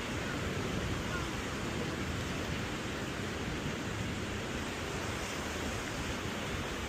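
Steady rushing noise of ocean surf and wind, with no breaks or distinct events.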